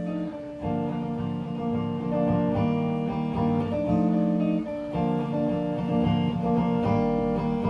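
Acoustic guitar strumming chords, with no singing over it.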